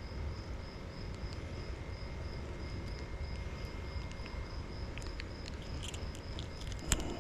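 An insect chirping steadily in a high, even pulse of about four chirps a second, over a low steady rumble. A few light clicks and a sharper knock come near the end.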